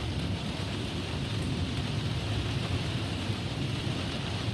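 Steady rain falling, with a low, continuous rumble underneath.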